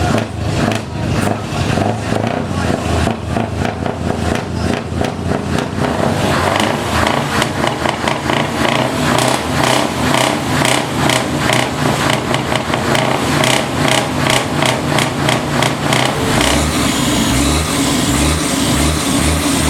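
Heavy truck diesel engines revved repeatedly through loud, straight exhaust pipes, the throttle blipped in quick, regular pulses.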